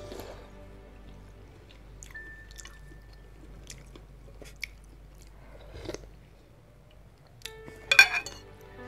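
Close-up chewing of a mouthful of prawn noodle soup, with a few small clicks, then a louder clatter of a metal spoon and fork against the ceramic bowl about eight seconds in.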